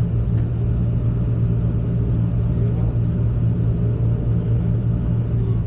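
Diesel engine of heavy machinery, likely an excavator, running steadily at constant speed: a loud, even low hum.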